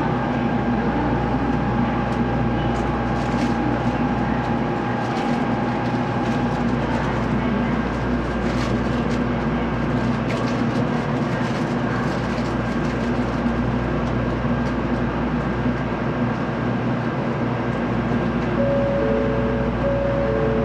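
Steady cabin hum inside a stationary JR Central N700A Shinkansen car, with a steady tone that stops about six seconds in. Near the end a two-note chime sounds twice.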